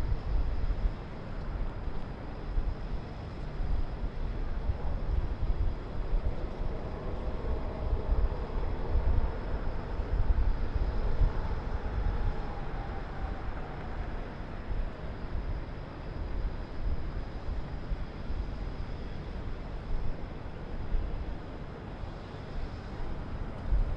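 Steady low rumble of city traffic heard from high above the city, swelling and easing unevenly. A faint engine-like tone rises and falls through the middle.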